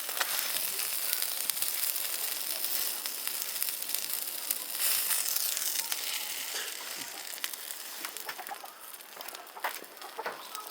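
Meat sizzling on a grill, a steady hiss that eases off about seven seconds in, with chickens clucking nearby.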